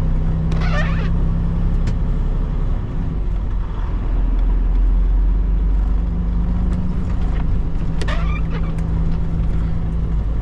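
Semi-truck's diesel engine running with a steady low drone, heard from inside the cab while driving. Two brief squeaks, about a second in and about eight seconds in.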